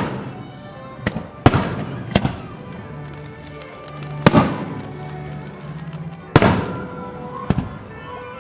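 Aerial fireworks shells bursting: about seven sharp bangs at irregular intervals, each trailing off in a rumbling echo, over music played to accompany the show.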